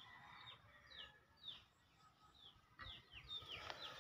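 Faint, high chirps of a small bird: short notes that each slide downward, repeated about twice a second.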